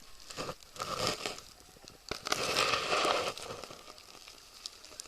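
Fresh snow crunching and rustling in a few short bursts, with a longer, louder crunch a little over two seconds in.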